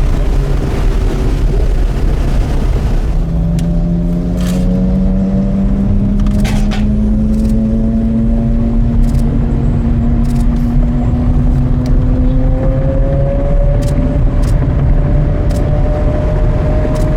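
Porsche Carrera GT V10 with FVD exhaust running under way, over a heavy low rumble. Its engine note comes in about three seconds in and climbs slowly and evenly. A few short sharp clicks are heard.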